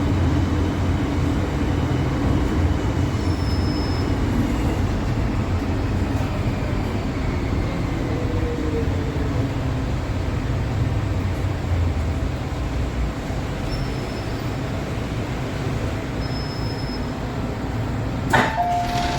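MTR M-Train electric metro train rumbling along the track and slowing, a faint motor whine falling in pitch as it brakes into the station. Near the end there is a sharp clunk and a short two-tone chime.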